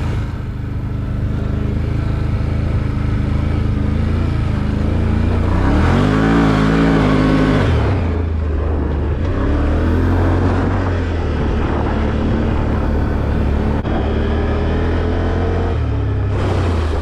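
Off-road vehicle's engine running steadily as it drives the trail, the revs climbing and dropping back about six to eight seconds in.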